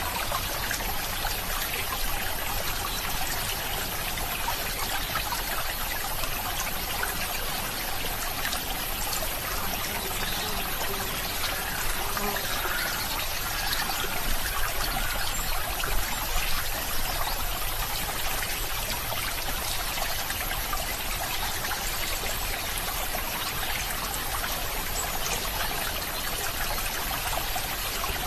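A stream running and trickling steadily, with a few slightly louder splashes a little past the middle.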